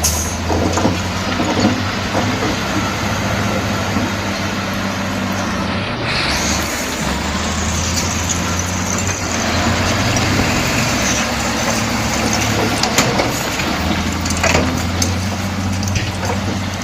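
Crawler bulldozer's diesel engine running steadily, with a few short metallic knocks in the second half.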